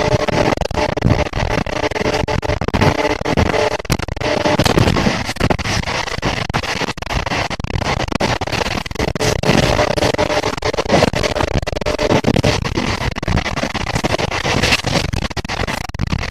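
Passenger train running at speed, heard from inside the coach at an open window: a steady rumble and rattle of wheels on the track with many irregular clacks, and a droning tone that comes and goes.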